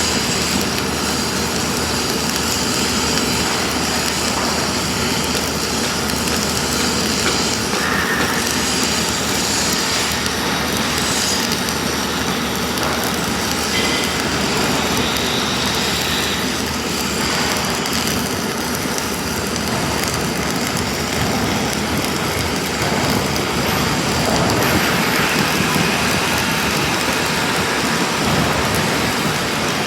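Self-shielded flux-cored arc welding with Lincoln Innershield NR305 5/64-inch wire: a steady, loud crackle that runs without a break.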